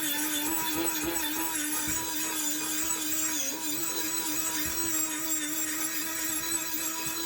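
A small electric power tool running steadily at one pitch, dipping slightly now and then as it is pressed onto the work, typical of rust removal on an old iron piece.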